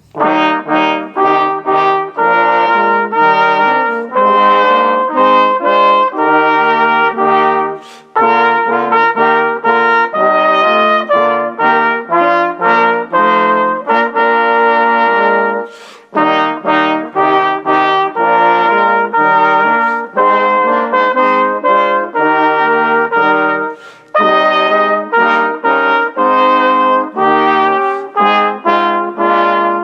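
Brass ensemble playing a slow piece in full chords, in phrases of about eight seconds with a short break between each.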